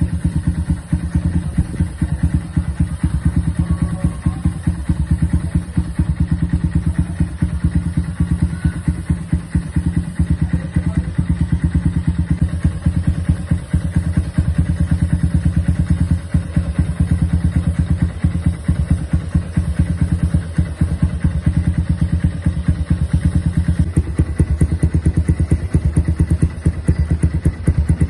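Kawasaki W175's single-cylinder engine idling steadily through a custom scrambler-style aftermarket exhaust, giving a deep, even exhaust beat.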